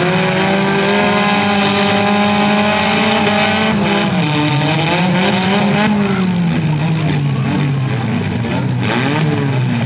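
Compact cars' engines revving hard in a demolition derby. The pitch holds steady for about four seconds, then rises and falls, with a few short bangs from about four seconds in and again near the end.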